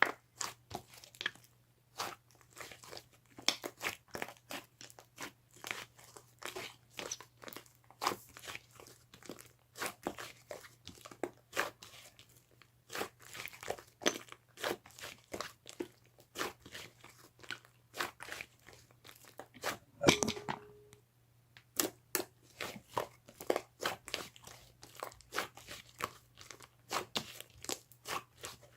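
Close, irregular crunching, several sharp crunches a second, over a faint steady hum.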